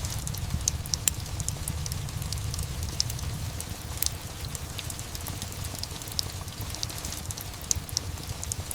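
Steady rain and a crackling fireplace: irregular sharp crackles and pops over an even low rumbling hiss.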